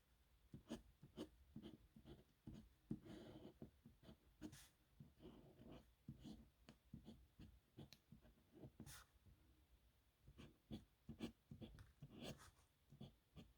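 Nib pen scratching across paper in short, irregular strokes, faint.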